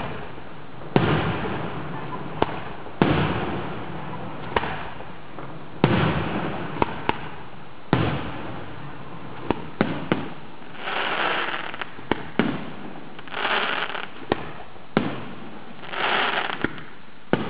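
Aerial fireworks shells bursting: a series of deep bangs, each trailing off in a rolling echo, mixed with sharper single cracks. From about ten seconds in, hissing swells about a second long come roughly every two and a half seconds between the reports.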